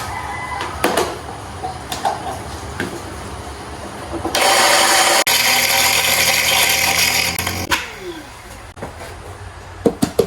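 A small electric kitchen appliance motor, such as a blender or mixer, runs loudly for about three seconds and then winds down with falling pitch. Light knocks and kitchen clatter come before and after it.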